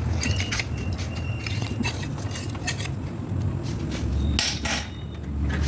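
Metal pieces clinking and tapping against each other, a string of light clicks with short ringing clinks, with a louder pair of knocks near the end, over a steady low hum.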